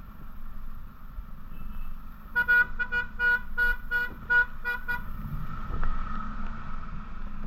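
A vehicle horn honked in a quick run of short toots, about two and a half seconds long, starting about two seconds in. Under it runs the steady low rumble of road noise and wind.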